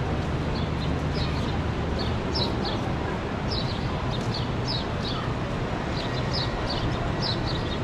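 A small bird chirping over and over in short, high, falling notes, often in pairs, about one or two a second, over a steady background rush of noise.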